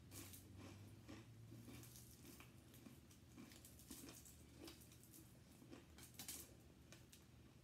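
Faint mouth-close chewing and soft wet smacks of fingers pulling meat off fried chicken wings, with irregular small clicks scattered throughout.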